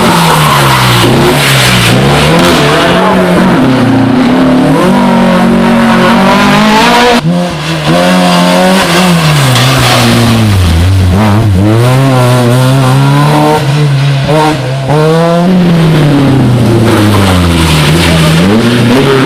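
Historic rally car engines revving hard at full throttle, the pitch climbing and dropping again and again through gear changes and throttle lifts. The sound breaks off abruptly about seven seconds in and carries straight on with the same kind of engine note.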